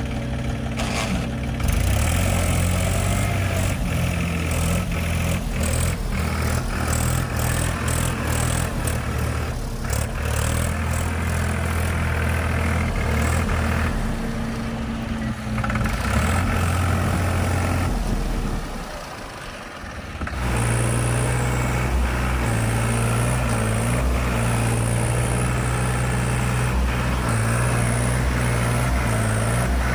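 Diesel engine of farm machinery running steadily, with clattering in the first half. It drops away briefly about two-thirds through, then comes back running steadily at a different pitch.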